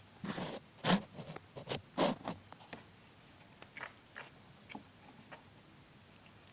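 Small handling noises: a quick run of scrapes and clicks over the first three seconds, then a few lighter clicks.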